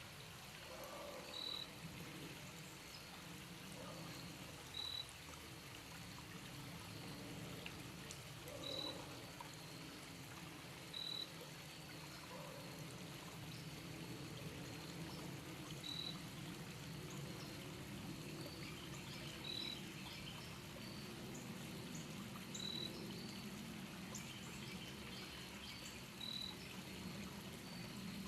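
Steady sound of running water, with a short high note repeating every two to three seconds.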